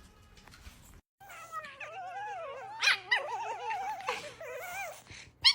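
A dog whining and yowling in long wavering cries, starting about a second in, with a short high yelp near the end.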